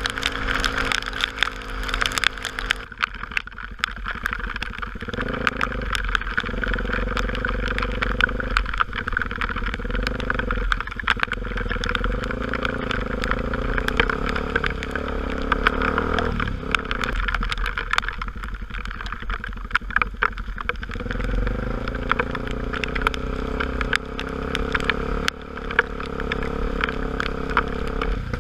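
A motorcycle engine running while riding, its pitch stepping up and down every few seconds as the speed changes, over a steady rush of road and wind noise with many small scattered ticks.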